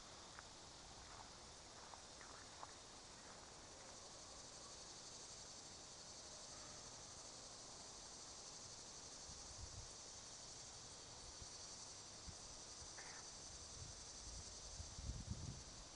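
Faint, steady chorus of insects, a high even hiss, with a few low thumps about fifteen seconds in.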